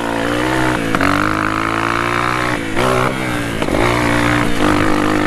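Honda CRF230F dirt bike's single-cylinder four-stroke engine running under riding load, its pitch rising and falling as the throttle is opened and shut several times.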